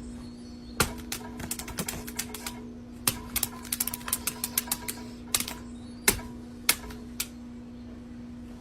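Sharp irregular clicks and taps, coming in quick clusters, over a steady low hum.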